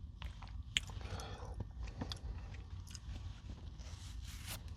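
Close-up chewing of crunchy granola-bar pieces in yogurt, with crisp crunches and many short clicks.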